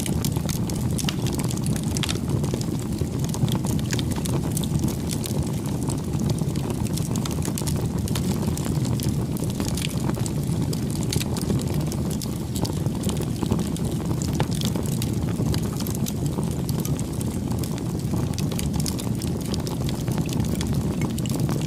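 A bonfire burning, with a steady low rush of flames and frequent sharp crackles and pops from the burning wood.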